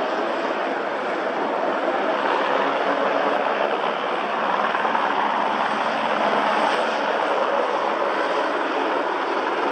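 Aircraft engine noise, steady and even throughout.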